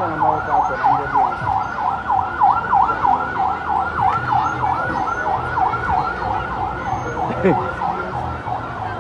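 Ambulance siren in a fast yelp, its pitch sweeping up and down about four times a second, growing a little fainter near the end.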